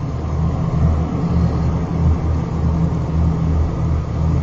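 Steady low rumble of a moving vehicle's engine and road noise, picked up by a dashcam inside the vehicle.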